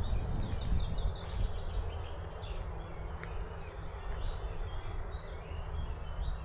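Steady hiss of heavy rain with wind rumbling on the microphone, and birds chirping in many short, high calls throughout.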